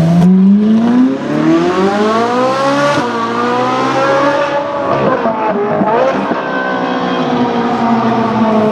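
Novitec-tuned Ferrari 458 Italia V8 running loud through its aftermarket exhaust. The engine note climbs in pitch over the first couple of seconds, holds and dips briefly about midway, then falls slowly through the rest.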